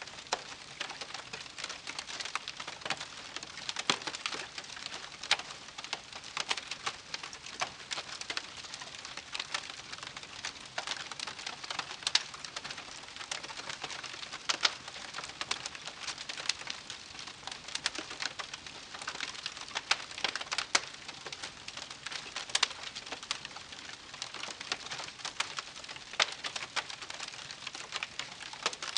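Wood campfire burning, with a steady hiss and frequent irregular crackles and sharp pops.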